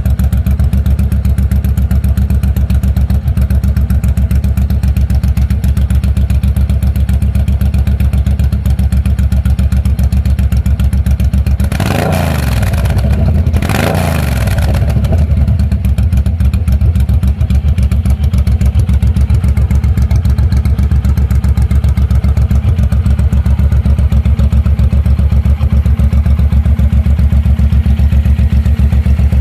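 Suzuki M109R V-twin idling through its shortened stock exhaust, revved twice briefly about halfway through, each rev rising and falling back to idle.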